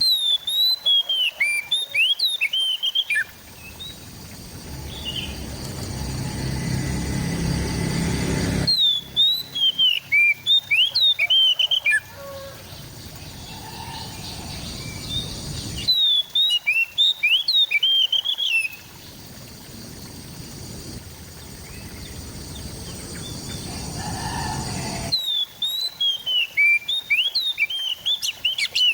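Oriental magpie-robin (kacer) singing in four bursts of about three seconds each, every burst a quick run of varied, sweeping whistled notes. Steady background noise fills the gaps between the bursts.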